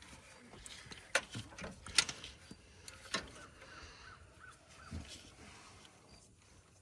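A few faint, sharp clicks and light knocks, about four spread over a few seconds, from hand-threading spark plugs into the engine's cylinder head.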